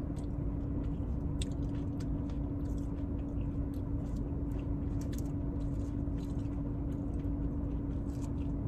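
Close chewing and crunching of a leafy salad with almond slices, with scattered short clicks from a plastic fork in the bowl, over a steady low hum.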